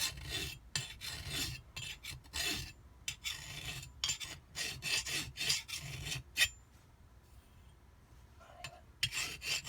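Short hand-file strokes scraping over the metal edge of a jet-ski pump impeller blade, taking off burrs. There are about a dozen quick rasping strokes, a pause of a couple of seconds, then filing again near the end.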